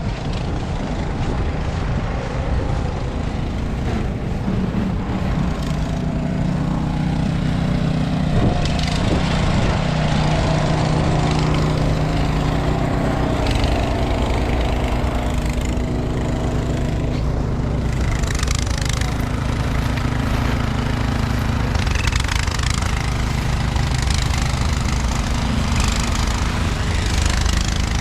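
An engine running steadily, with a low hum of even tones, under street and wind noise.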